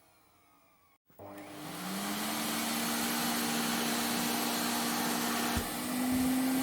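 Vacuum cleaner motor faintly winding down to silence, then switched on about a second in: the motor whine rises in pitch as it spins up and settles into a steady run with a rushing air noise. Near the end the pitch steps slightly higher with a low knock.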